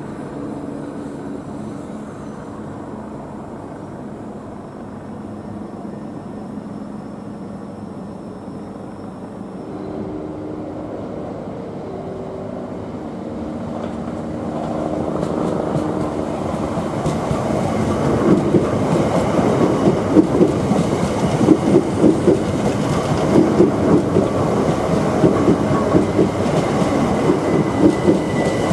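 Southeastern electric multiple-unit trains: first a steady electric hum from a train at the platform, then a train running in close by. Its wheels clack rhythmically over rail joints and points, getting louder over the second half.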